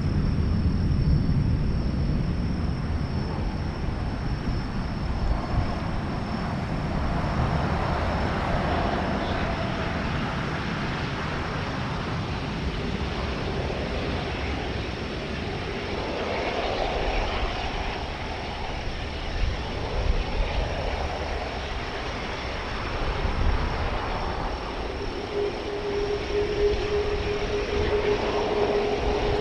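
Jet engine noise from an Airbus A380-841's four Rolls-Royce Trent 900 turbofans on takeoff: a continuous rumble, with a steady hum coming in near the end.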